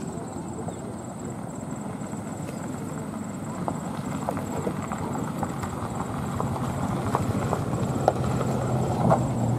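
Distant passenger train running along a hillside line: a low rumble with faint, irregular clacks of wheels on the rails, growing steadily louder.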